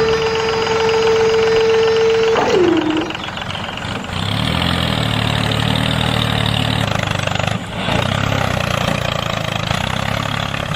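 A steady horn-like tone that bends and drops in pitch after about two and a half seconds, followed by an engine running steadily.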